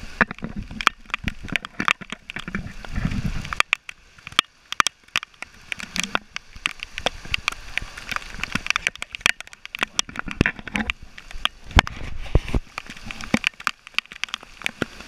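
Heavy downpour on a flooded street, with dense, irregular hard ticks and splatters of raindrops striking close to the microphone. A low rumble sits under it for the first three seconds or so.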